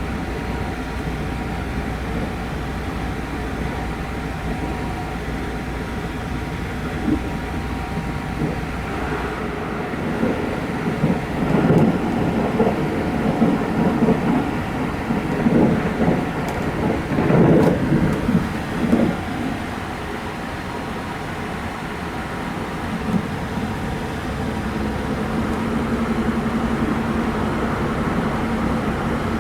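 Running noise of the Sunrise Izumo sleeper electric train, heard from inside the carriage: a steady rolling sound with a faint hum, growing louder and uneven for several seconds in the middle.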